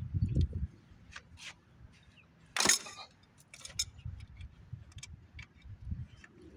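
Wrench and metal fuel-line fittings clinking and clicking while a fuel line nut is worked loose, with one louder clank about two and a half seconds in.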